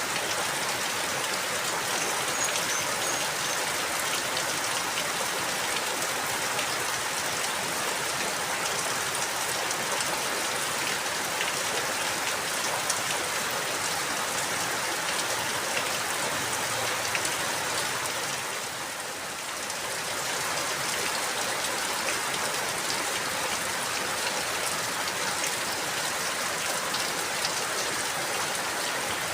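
Steady rain falling, with the patter of many close drops hitting a surface. The rain thins briefly about two-thirds of the way through, then comes back.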